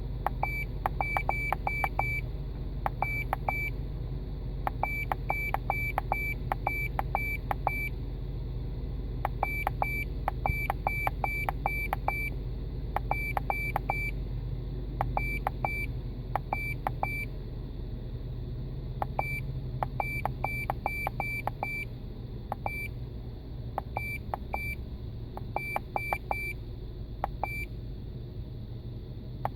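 Rapid high-pitched electronic beeps in irregular runs of several a second, stopping and starting throughout, over the steady low hum of a Dodge Dakota's 4.7-litre V8 idling.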